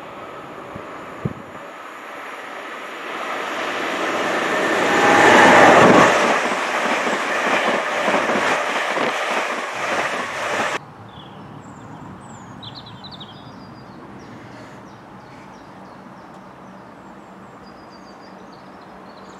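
Passenger train approaching and passing on the line, its running noise building to a peak about five seconds in, with wheel clicks over the rails as it goes by. The sound cuts off abruptly about eleven seconds in, leaving a quiet outdoor background with faint high chirps.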